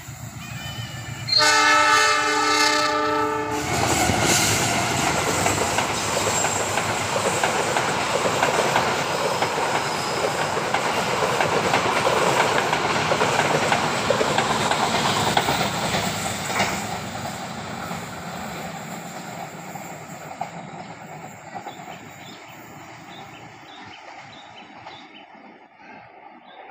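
A train passing: the locomotive's horn sounds a loud chord for about two seconds, then the train runs by with the noise of its wheels on the rails and slowly fades away.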